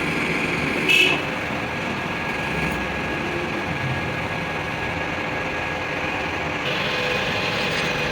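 Steady mechanical hum with a sharp knock about a second in.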